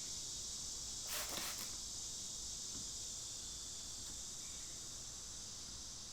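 Steady high-pitched chorus of crickets, with a short hiss about a second in.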